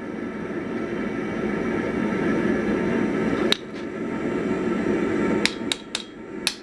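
Steady rushing noise of a forge running, growing louder, with a sharp metallic click about halfway and several more clinks near the end.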